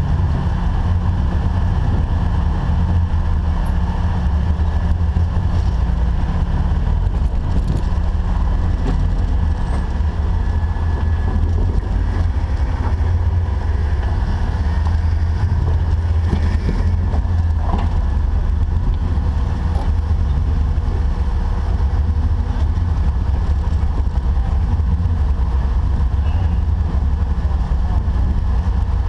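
Jeep 4x4's engine running at low, steady revs: a constant low rumble with no rise or fall.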